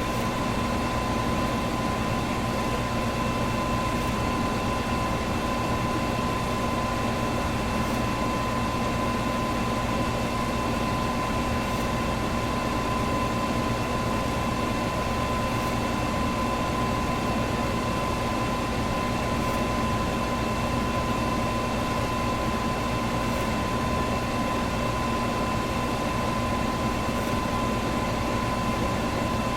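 Electric fan running steadily: an even whoosh of moving air with a constant motor hum and a steady high whine. A faint tick comes about every four seconds.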